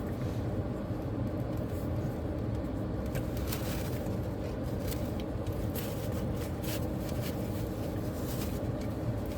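A steady low mechanical hum, with a few faint rustles and clicks over it.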